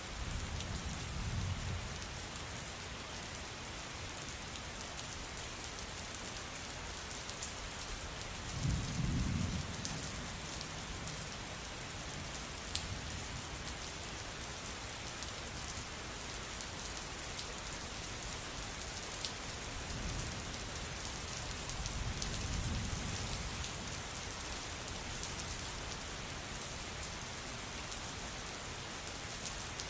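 Steady rain falling, with fine drips ticking through it. Low rolls of thunder swell up three times: at the start, about nine seconds in (the loudest), and around twenty-two seconds in.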